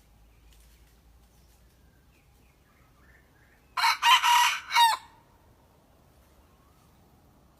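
A red junglefowl rooster crowing once: a short, clipped crow of about a second, about four seconds in.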